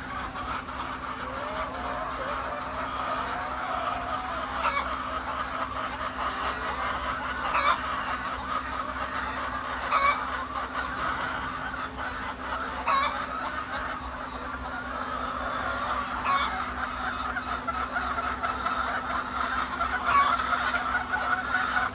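A large flock of laying hens clucking and calling continuously over a steady low hum, with a short, sharper call or clack every few seconds.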